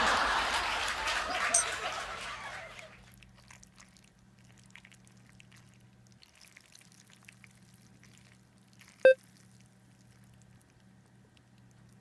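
Liquid pouring in a kitchen, a rushing sound that fades out about three seconds in. About nine seconds in comes a single short ringing clink, with a faint low hum underneath.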